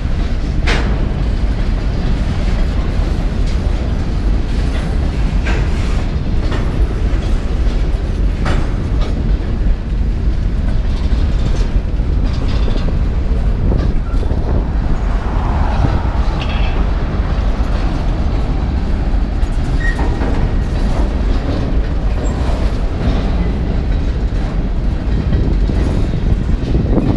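Freight cars rolling past at close range: a steady rumble of steel wheels on rail, with occasional sharp knocks.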